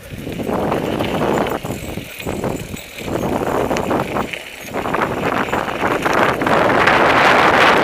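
Mountain bike rolling down a dirt trail: tyres grinding over dirt and gravel, with clicks and rattles from the bike. Wind on the microphone builds toward the end as speed picks up.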